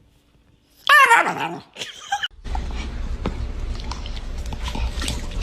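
A dog yelps loudly about a second in, the pitch falling, then gives a shorter second call. After that comes a steady noisy background with a low rumble.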